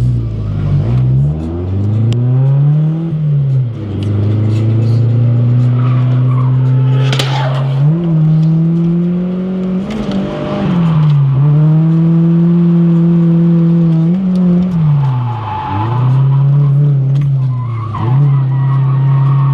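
Drift car engine on track, revving up and dropping back several times and holding steady high revs for long stretches in between, with tyre squeal from the car sliding.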